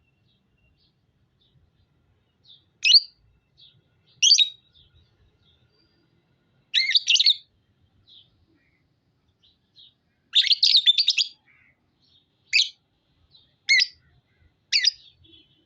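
Small pet birds chirping: sharp, high calls about every one to two seconds, with quicker runs of chatter about seven seconds in and again about ten seconds in, the second run lasting about a second.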